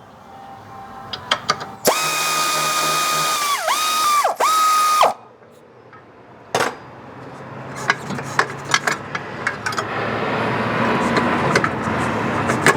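Cordless impact wrench spinning on the control-arm bolt's nut: the motor runs at a steady high whine for about three seconds, its pitch dipping twice as it loads up, then stops. Later come scattered clicks and a rising metallic rattle.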